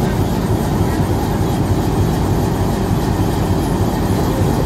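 Train running on the rails: a steady, loud rumble with wheel clatter.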